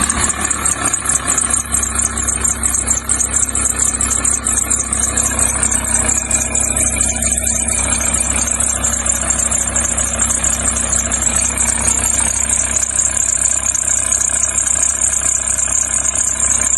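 VW T4 2.5 TDI five-cylinder diesel idling, with a steady high-pitched squeak from the crankshaft pulley. The owner puts this down to the pulley's vibration damper, which has slight play and which he thinks is no longer right.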